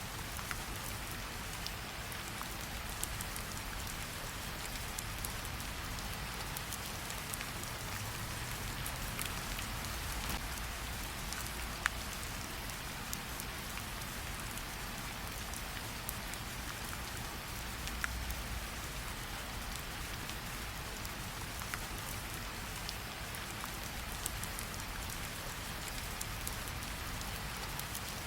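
Steady rain with a campfire crackling, a few sharp pops standing out, the loudest about twelve seconds in.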